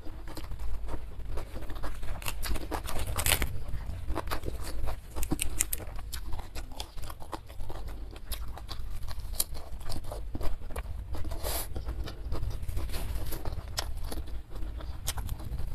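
Close-miked eating sounds: chewing and crunching fresh raw vegetables such as lettuce, with wet mouth clicks and irregular crackles, plus a few louder crunching bites.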